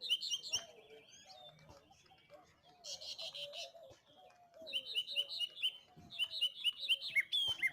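Birds chirping in rapid runs of short high notes, about five a second, over soft falling low calls. A brief scratchy rustle comes about three seconds in.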